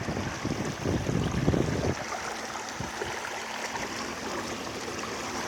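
Water washing along the hull of a small boat under way, with wind buffeting the microphone for about the first two seconds, then a steady wash with a faint low hum underneath.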